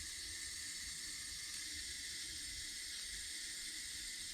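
Steady hiss of water running in the background from a water softener cycling through its regeneration.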